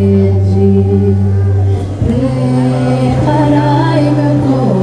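Group singing of a São João festival song over sustained instrumental notes. The held low note changes pitch about two seconds in.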